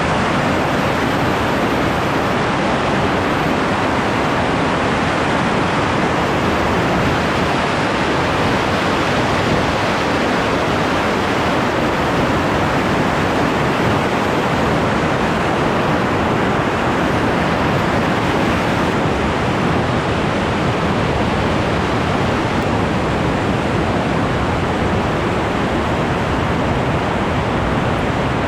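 Loud, steady rush of whitewater from a powerful river pouring through waterfalls, an unbroken, even roar without pauses.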